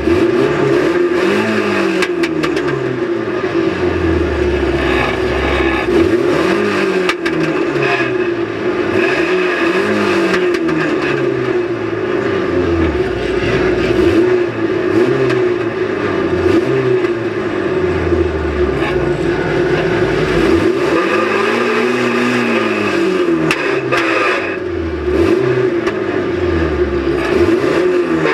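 A banger race car's engine heard from inside its stripped-out cabin, revving up and falling back again and again as the car is driven hard, with a few sharp knocks and rattles from the bodywork.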